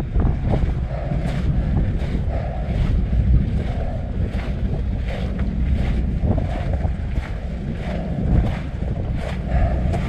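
Strong wind buffeting the microphone in a steady low rumble, with faint crunching footsteps about once a second from a hiker climbing a windswept mountain trail.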